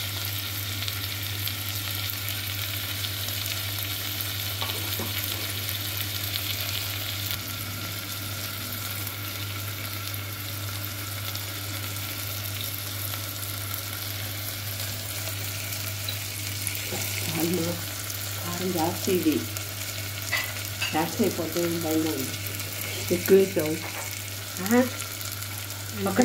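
Sliced tomatoes and onions frying in oil in a stainless-steel pressure cooker: a steady sizzle of hot oil, with a low hum underneath.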